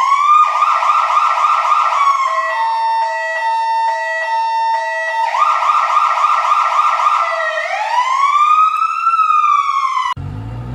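Fire truck's electronic siren cycling through its patterns: a slow rising wail, a fast yelp, a rapid alternating two-tone, then the yelp and a slow rise-and-fall wail again. It cuts off suddenly near the end, leaving a low hum.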